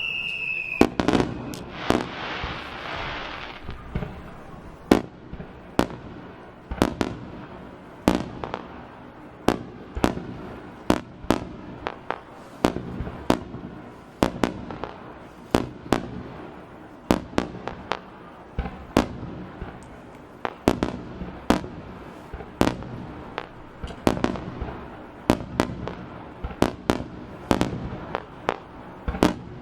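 Aerial fireworks going off in a long, irregular series of sharp bangs, about one or two a second, with a crackling hiss about two to three seconds in.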